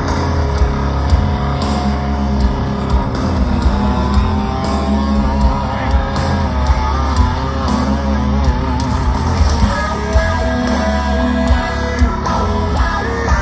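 Heavy rock band playing live: distorted electric guitars, bass and drums with a sung vocal line over them, heard loud through an audience recording.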